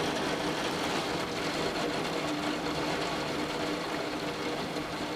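Torrential rain falling steadily, with water spilling from overflowing gutters, a constant hiss and splatter that does not let up. A faint steady hum sits underneath.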